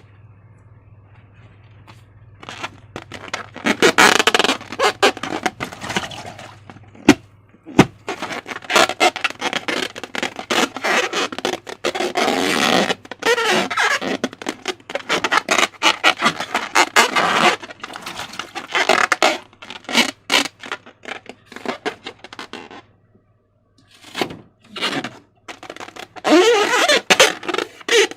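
Slime being squished and worked by hand: dense runs of sticky crackling and popping in irregular bursts, pausing twice. A faint steady low hum runs underneath.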